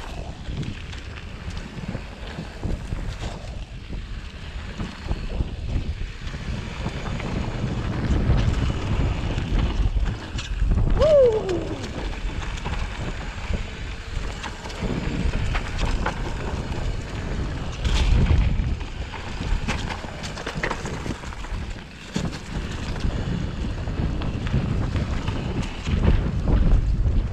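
Wind buffeting the microphone over the rumble of a mountain bike rolling down a rough trail, with scattered sharp knocks and rattles over bumps. A brief falling squeal about eleven seconds in.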